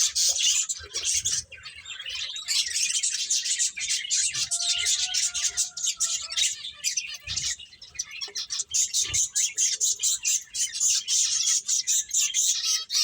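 Pet finches chirping, a dense flurry of rapid, overlapping high calls with short lulls.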